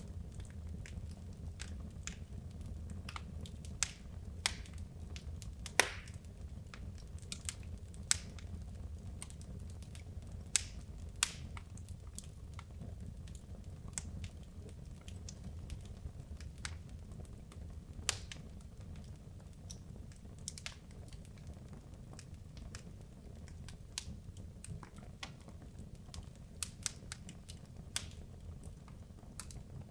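Wood logs burning in a fireplace, crackling with irregular sharp pops and snaps over a steady low rumble of the flames.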